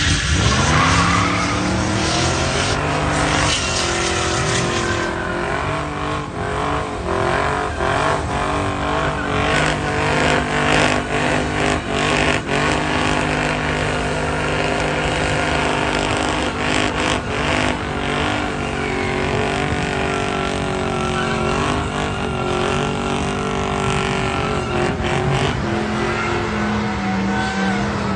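Car engine held at high revs with only small rises and falls, over a continuous squeal of spinning tyres: a burnout.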